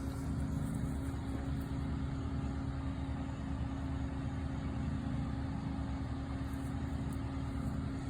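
Engine running steadily at a constant speed: a low, even hum with one strong steady tone.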